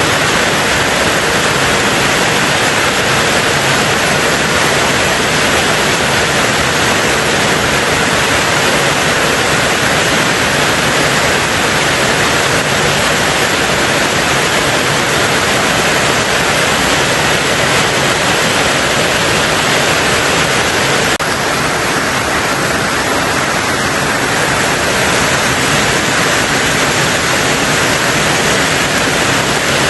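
Heavy rain falling steadily on a tin roof, a dense, even hiss in which no single drops stand out; it turns a little softer about two-thirds of the way through.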